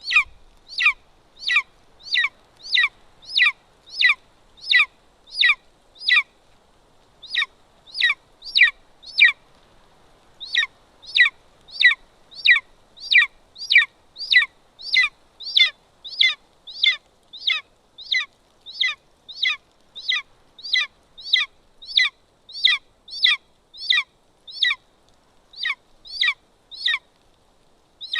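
Golden eagle nestling begging, probably during a feeding: a long run of short, high, downward-slurred calls, about one and a half a second, with two brief pauses.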